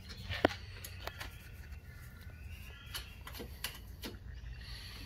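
A few light metal clicks and taps of stainless bolts, washers and nylock nuts being handled and fitted to a bracket, the sharpest about half a second in, over a low steady hum.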